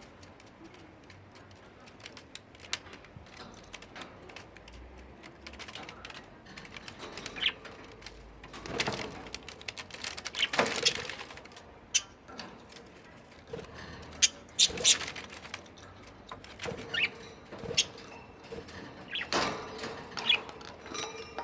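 Pet budgerigars calling with a few short chirps among scattered sharp clicks and taps, with a louder spell of activity about halfway through.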